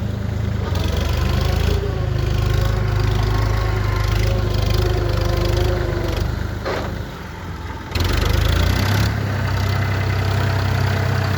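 Tractor engine running steadily with a low drone. It drops away briefly about two-thirds of the way through, then comes straight back up.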